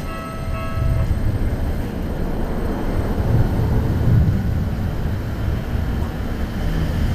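Keikyu Airport Line train running over a level crossing: a steady, heavy rumble of wheels on rail that swells a few times. The crossing's warning bell rings over it for about the first second, then is drowned out.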